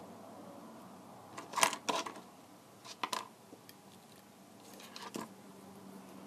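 A few sharp clicks and taps from small tools and plastic device parts being handled on a workbench: two close clicks about one and a half seconds in, two more near three seconds, and softer ones around five seconds, over a faint steady hum.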